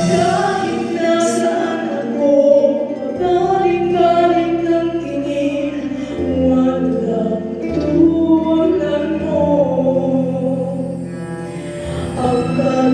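Voices singing a slow Christmas song with instrumental accompaniment, holding long notes.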